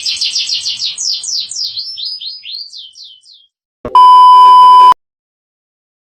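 A rapid run of high, falling chirps that slows and fades over about three seconds. It is followed about four seconds in by a loud, steady one-second electronic beep at a single pitch, which cuts off suddenly.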